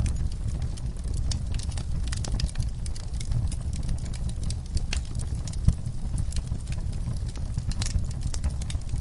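Wood fire crackling in a fireplace: irregular sharp pops and snaps over a steady low rumble of the flames, with one louder pop near the middle.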